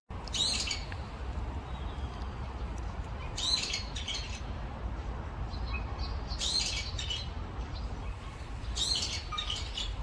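A bird calling: four short, high calls about three seconds apart, over a steady low rumble.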